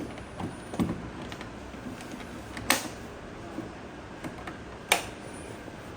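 A few sharp clicks and knocks, about three, the loudest near the end, as the laser handpiece's connector is handled and plugged into the machine.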